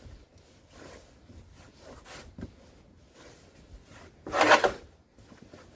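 Fresh deep snow crunching and rustling as it is stepped through or handled, with one louder crunch of about half a second a little after four seconds in.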